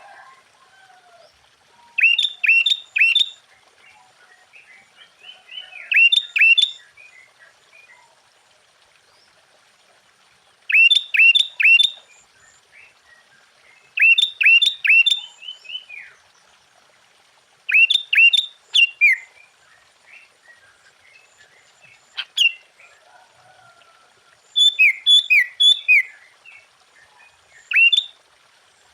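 Sooty-headed bulbul (kutilang) singing: short phrases of three or four quick, clear notes, repeated every few seconds.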